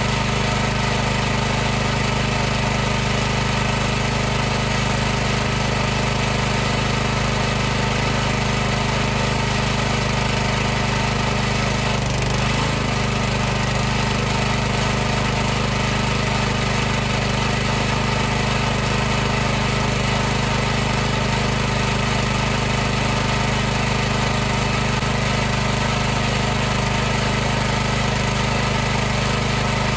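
High-pressure washer's motor and pump running steadily at one constant pitch, wavering briefly about twelve seconds in.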